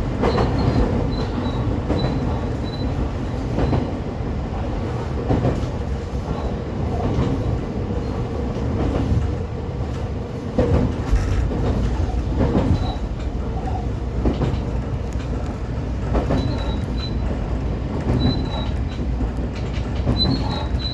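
125 series electric railcar running along the line: a steady rumble of wheels on rail with irregular clacks over rail joints, and a faint high wheel squeal at the start and again near the end.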